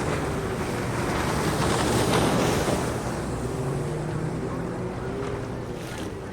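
Boat motor running with a low hum under a steady rush of wind noise, slowly fading as it moves away.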